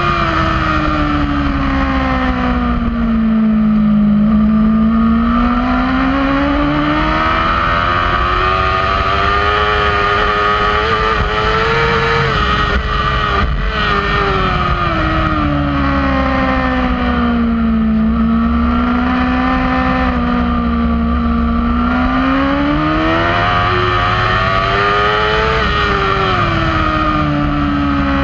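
Kawasaki racing superbike's engine heard from on the bike, its pitch sinking slowly and climbing again several times over long, smooth swells with no abrupt shifts.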